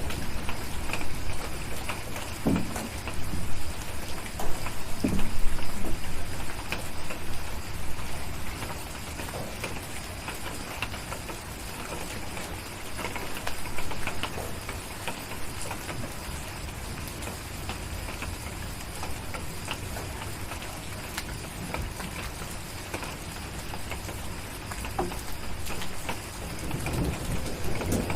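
Steady rain falling, with scattered sharp fire crackles over it. A low rumble of distant thunder swells in the first several seconds and another begins to build near the end.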